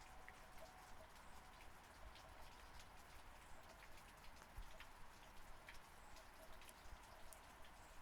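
Faint, steady rain, with individual raindrops ticking on a surface every so often.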